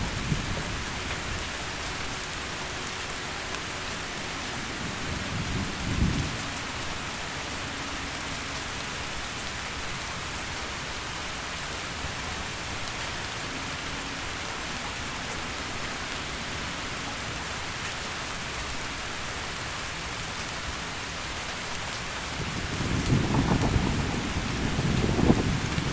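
Heavy rain falling steadily, with thunder rumbling twice: a short low rumble peaking about six seconds in, and a longer, louder one building over the last few seconds.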